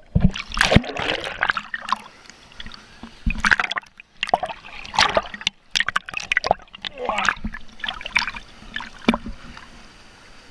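Water splashing and sloshing in irregular bursts, several in a few seconds.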